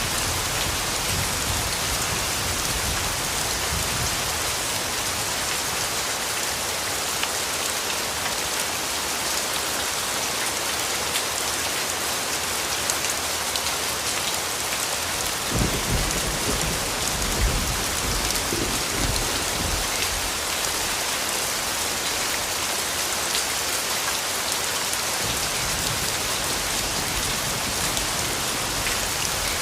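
Steady rain falling on a surface, with individual drops pattering. Low rumbles of distant thunder come at the start and again about halfway through, with a couple of louder jolts, fading away a few seconds before the end.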